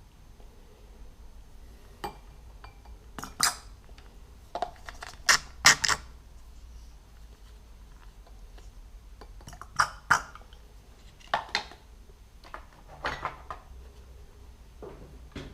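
Metal objects being handled, knocking and clinking together in about a dozen sharp, irregular taps, the loudest around a third of the way in and again near the middle.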